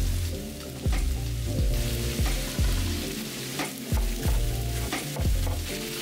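Fried rice with pork and vegetables sizzling in a frying pan, stirred with a few sharp knocks of the spatula against the pan. Low background music plays underneath.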